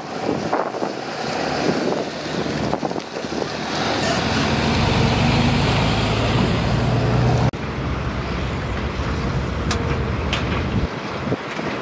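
Diesel engine of a heavy earthmoving machine working under load, with a low drone that swells in the middle. The sound breaks off abruptly about seven and a half seconds in and carries on in a similar way, with a few sharp knocks.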